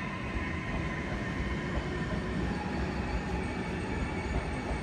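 Regional passenger train moving through the station: a steady, even rumble of wheels and running gear.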